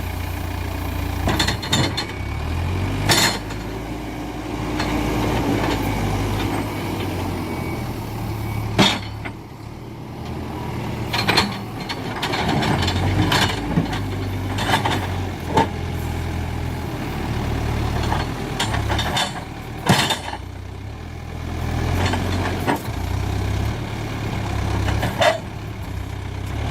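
Hidromek 102B backhoe loader's diesel engine running steadily under load as it works in stony ground, with repeated sharp knocks and scrapes of the steel bucket against rock.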